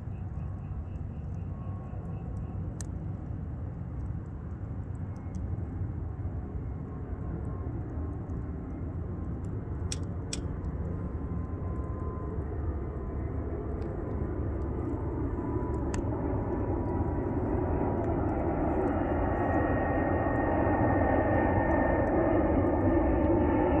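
Airplane flying over, its engine noise growing steadily louder, with a few sharp crackles of a wood fire, two about ten seconds in and one around sixteen seconds.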